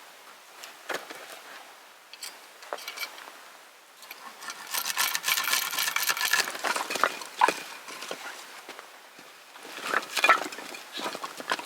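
Hands at work with wood and camp gear: scattered scrapes and knocks, a busier clattering stretch with a slight metallic ring about halfway through, and a few sharp knocks near the end.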